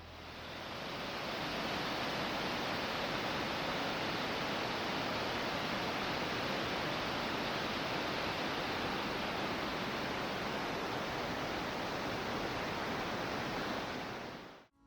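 Steady rushing of a waterfall, fading in over the first second or two and cutting off abruptly just before the end.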